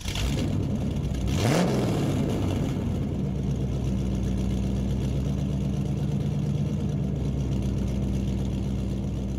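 A vehicle engine revs up once about a second and a half in, then runs steadily.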